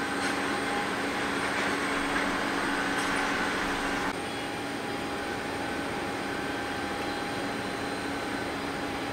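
Boeing 737-800's CFM56-7B jet engines running steadily at low power, a whine of several steady tones over a rushing hiss, which drops off a little about four seconds in.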